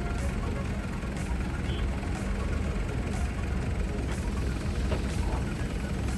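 Heavy engine running steadily at idle, a low even rumble with faint ticks about once a second.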